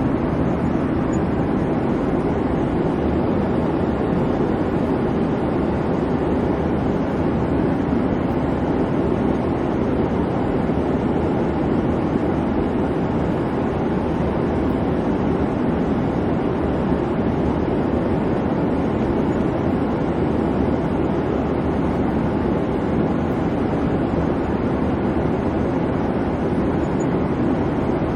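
Steady airplane cabin noise: the low, even rumble of the engines, unchanging throughout.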